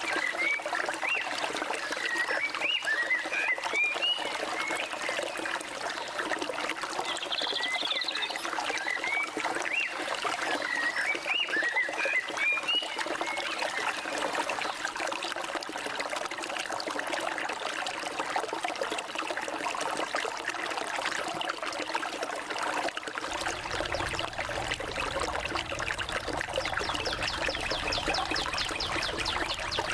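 Forest stream water running steadily, with birds calling in clusters of short chirps in the first half and a fast, high trill near the end.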